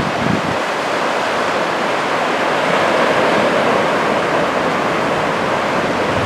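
Ocean surf breaking and washing on a sandy beach, a steady roar of white water that swells slightly around the middle.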